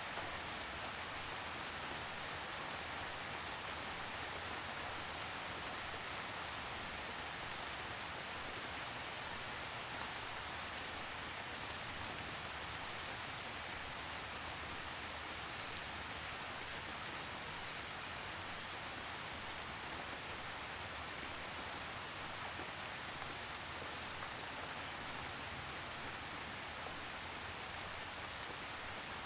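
Steady gentle rain, a soft even patter of drops with occasional faint separate drips.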